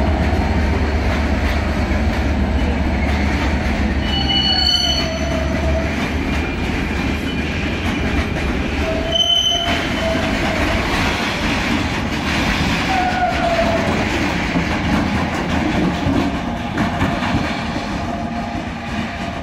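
Container freight train passing close by: loaded container wagons rumbling and clattering over the rails, with a rear banking electric locomotive coming through near the end. Wheels squeal briefly a few times, and the sound eases off near the end.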